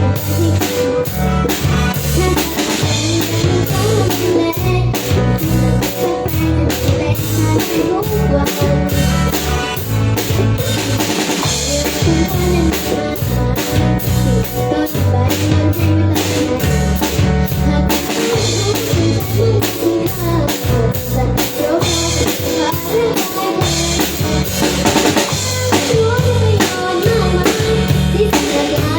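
Live band playing an instrumental with a steady drum-kit beat of bass drum, snare and rimshots over a repeating bass line, during a sound check.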